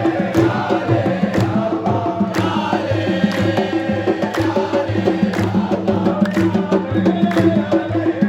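A crowd of supporters chanting together in a sung chant over steady beats of drums.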